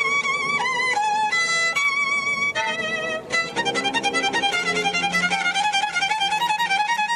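Solo violin playing a melody, with long held notes at first and a quick run of short notes from about halfway.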